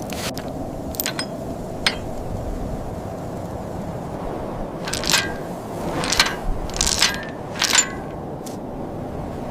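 A handful of sharp metallic clinks, two light ones early and four louder ones in quick succession between about 5 and 8 s in, each with a brief ring, over a steady low noise.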